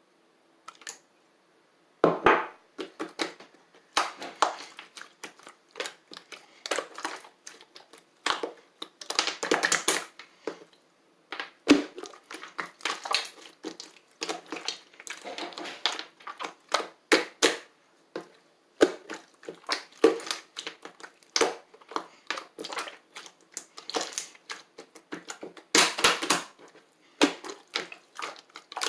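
Slime being squeezed, pressed and poked by hand, making irregular runs of sharp clicks and pops in clusters with short pauses between.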